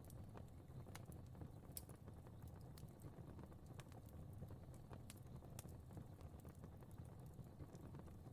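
Fire crackling faintly: small, irregular pops and snaps over a low, steady rumble of flame.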